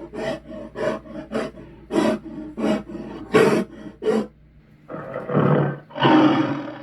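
Chernabog monster sound effects: a run of about eight short, sharp growled bursts, then two longer rough roars near the end.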